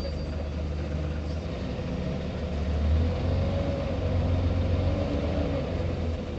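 Scania CN94UB OmniCity city bus's diesel engine running, heard from inside the bus as a steady deep rumble that grows louder from about three seconds in.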